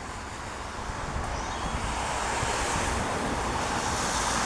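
Road traffic: a vehicle's tyre hiss swelling steadily louder as it approaches.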